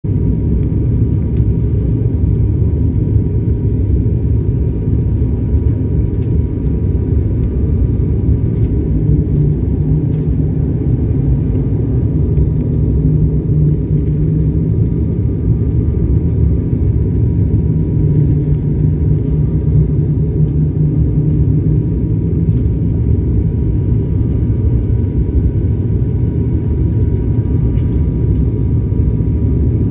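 Steady, unbroken low rumble of an aircraft in flight heard from inside the cabin, with a faint constant hum riding on top.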